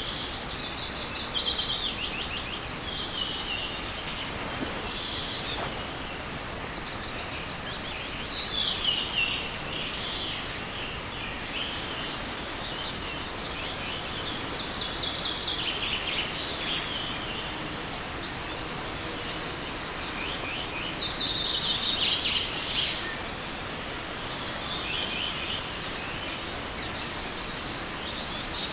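Songbirds singing short trilling phrases, one every few seconds, over the steady rush of a forest stream.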